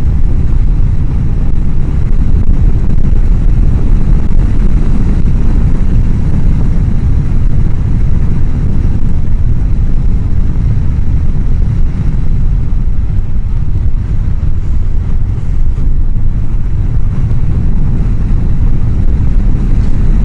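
Heavy wind rush on a motorcycle helmet microphone at riding speed: a loud, steady low rumble. The mic sits behind the chin-bar air vent, which lets the wind drown the bike's sound.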